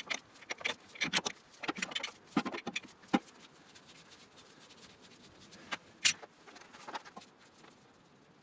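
Light metallic clicks and clinks of tools or parts being handled: a quick run of them over the first three seconds, then a few single clicks later on.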